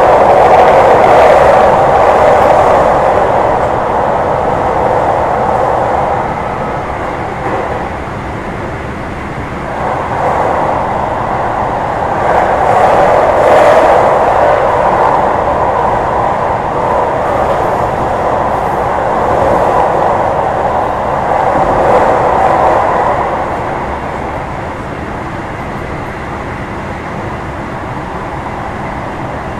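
JR West 225 series 0-番台 electric train with a Toyo IGBT inverter, heard from inside a car while running at speed: a steady wheel-on-rail rumble and rush that swells and eases. The rumble settles to a lower, even level about three-quarters of the way through.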